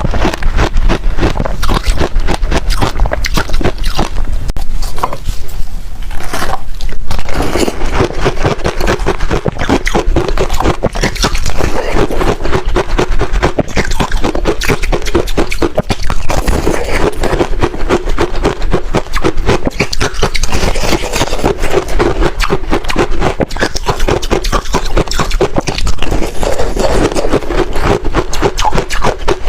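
Close-miked crunching and chewing of freezer frost ice: a dense run of rapid crackling crunches, easing briefly a few seconds in before going on.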